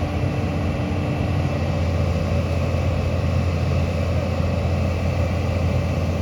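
Heavy diesel engine of earth-moving machinery running steadily, with a constant low hum.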